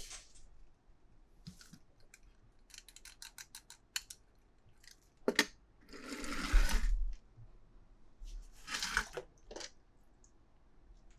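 Close handling noises: scattered clicks and taps, a quick run of clicks about three seconds in, and two longer rustling scrapes, the louder starting a little past five seconds and the other at about eight and a half seconds.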